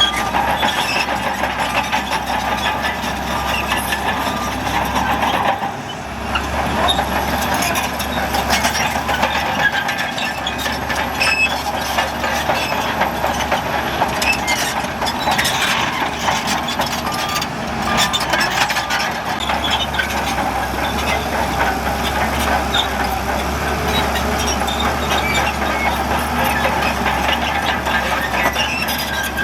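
Heavy earthmoving machinery at work: diesel engines running steadily under load, with continual metallic clanking and rattling.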